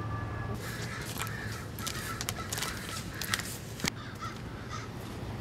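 A series of short, harsh bird calls.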